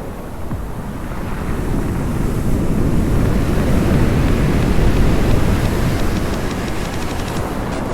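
Sea surf washing onto the shore: a wave builds to its loudest about halfway through, then eases off, with wind buffeting the microphone.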